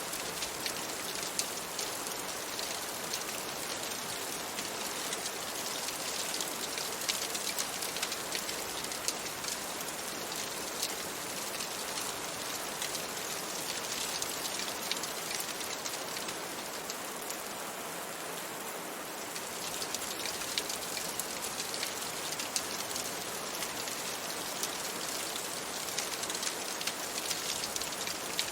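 Steady rain on a window: an even hiss of falling rain with many small sharp ticks of drops throughout.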